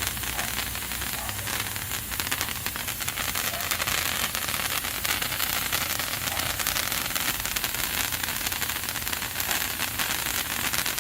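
Two World Class Fireworks Patriot Sticks, large sparkler-like novelty fireworks, burning together with a steady crackling hiss.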